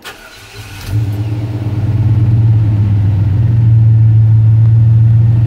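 Engine being restarted: a short starter burst, then it catches about a second in and settles into a steady, loud idle. The engine had stalled in gear, which the owner thinks is a torque converter on the 4L60E automatic staying locked up a little.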